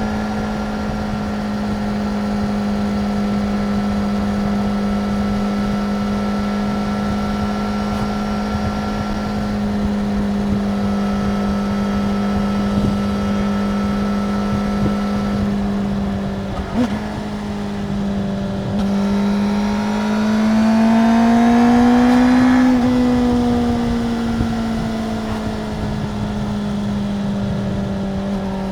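Stock 2025 Suzuki GSX-R750's inline-four engine running at a steady pitch with its stock exhaust. About seventeen seconds in the sound dips briefly with a click, then the revs climb to a peak a few seconds later and settle back to the steady note.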